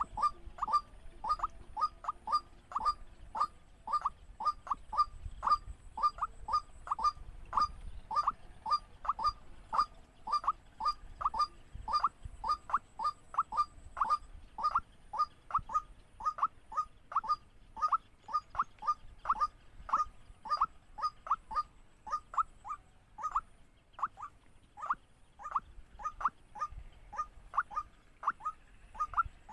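White-breasted waterhen calling: a long, monotonous run of short, sharp notes, about two to three a second, evenly spaced.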